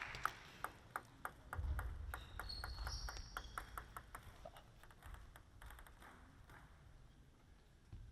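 Table tennis rally: the celluloid ball clicking off the table and the rackets in quick alternation, a few hits a second, with a short high squeak about two and a half seconds in. The rally ends a little past halfway and the hall goes quiet.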